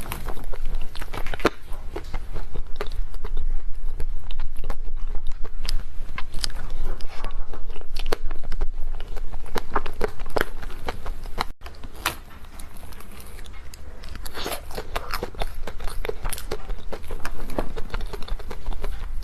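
Close-miked mukbang eating sounds: biting into and chewing cake, with many irregular small clicks and crunches. A brief break about eleven and a half seconds in, after which the chewing is quieter.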